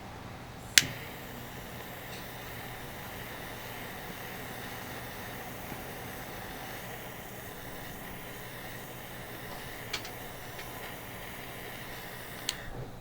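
Charcoal barbecue grill with an iron plate giving a steady hiss, broken by three sharp clicks: the loudest about a second in, where the hiss begins, then two fainter ones near the end.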